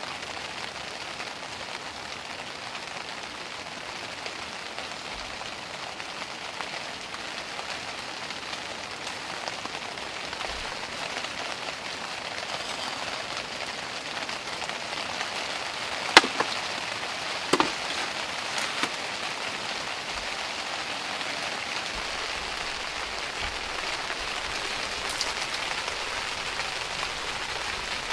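Rain pattering steadily on the tent fabric, heard from inside the tent, growing slightly heavier. About halfway through, two sharp clicks a second and a half apart.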